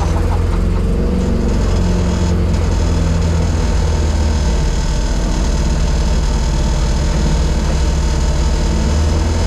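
Zetec-converted Mk1 Ford Fiesta race car's engine running at low, steady revs, heard from inside the stripped cabin.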